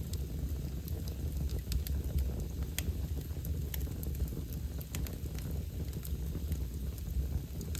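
Wood fire burning in a fireplace: irregular sharp crackles and pops over a steady low rumble, the loudest pop a little under three seconds in.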